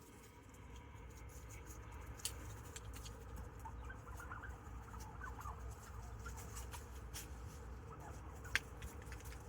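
Wild turkeys feeding, giving soft, faint clucking calls, clustered in the middle, over a low background rumble, with a couple of sharp taps, the louder one near the end.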